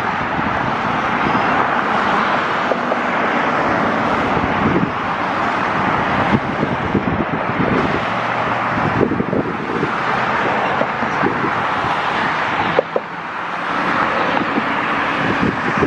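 Steady rushing roar of A-10 jet engines passing, with wind buffeting the microphone.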